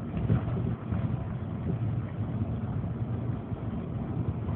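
Volkswagen Beetle's engine and road noise heard from inside the cabin while driving, a steady low rumble.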